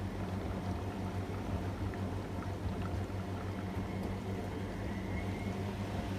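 AEG Öko-Lavamat 73749 front-loading washing machine running a wash, with water and laundry sloshing in the drum over a steady low motor hum.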